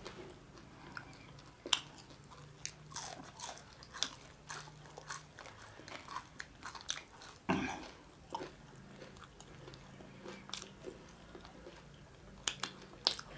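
Close-miked eating by hand: chewing and biting, with scattered soft crunches and mouth clicks. A louder breathy sound comes about seven and a half seconds in.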